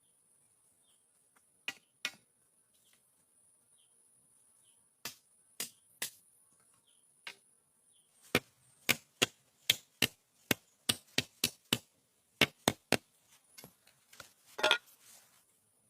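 Sharp chopping strikes on wood: a few scattered blows, then a quick run of about two a second and a final cluster near the end. A steady high insect drone sounds until about halfway through.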